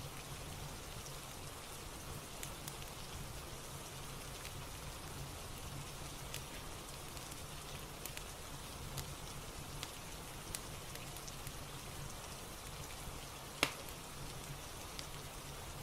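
Steady rain ambience, an even hiss, with scattered sharp crackles of a fireplace and one louder snap near the end.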